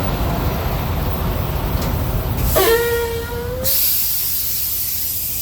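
Semi truck's diesel engine idling steadily. About two and a half seconds in a single held horn-like tone sounds for about a second, then a loud high hiss of air runs to the end.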